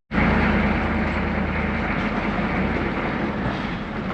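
A vehicle engine running steadily under way, with a low hum and road noise that hold an even level, cutting in abruptly at the start.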